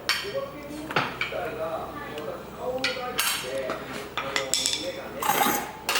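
Metal tools clinking and knocking on a steel car body panel in a series of sharp, irregular strikes with a short metallic ring, as a dent is worked out with dent-pulling tools.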